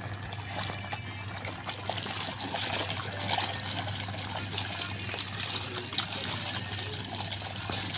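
Washing machine with water trickling and splashing inside it, over a steady low hum, with a brief click about six seconds in.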